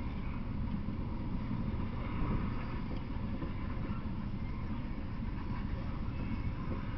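Freight train of open-top hopper cars rolling past, a steady low rumble of wheels on the rails.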